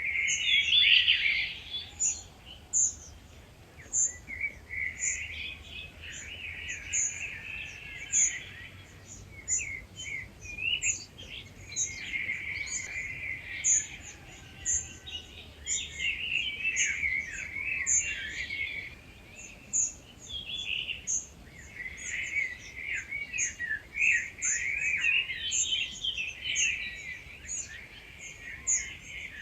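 Dawn chorus of several wild birds. Song phrases a few seconds long repeat after short pauses, over a steady run of short, high chirps.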